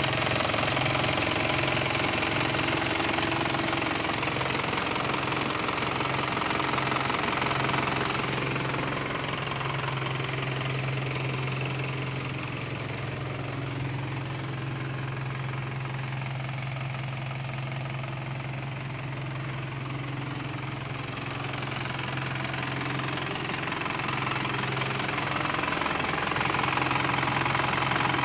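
Isuzu Elf dump truck's 4HF1 four-cylinder diesel engine idling steadily. It drops somewhat in loudness through the middle and comes back louder near the end.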